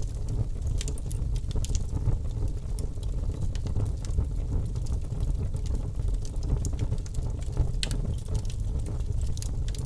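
Wood fire in a fireplace crackling: a steady low rumble of flames with irregular sharp pops and snaps, a few of them louder, about a second in and near the end.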